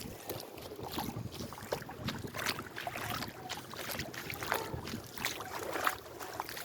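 Water splashing and sloshing in irregular short splashes over a steady noise, with wind buffeting the microphone.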